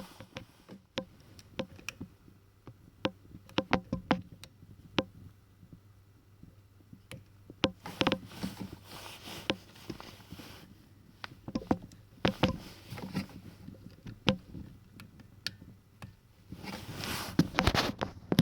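Nissan Skyline R32 GT-R dashboard clock's newly replaced push buttons being pressed over and over, sharp single clicks and short quick runs of clicks, with a few stretches of rustling handling noise. A low steady hum runs underneath.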